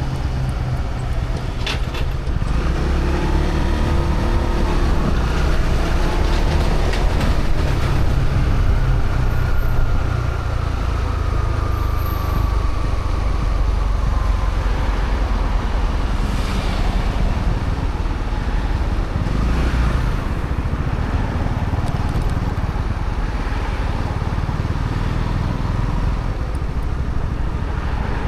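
Honda CB125R's single-cylinder 125 cc four-stroke engine running through its stock exhaust while riding, the engine note gliding up and down with the throttle, over steady road rumble.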